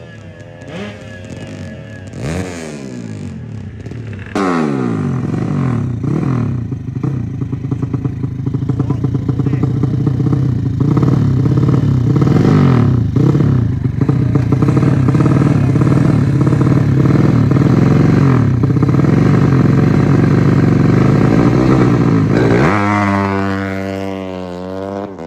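Modified drag-bike motorcycle engine, a Yamaha Jupiter with a Honda Supra cylinder head, being revved hard: a short rev about two seconds in, then from about four seconds in it turns suddenly much louder and stays loud, its pitch swinging up and down over and over, before it falls away near the end.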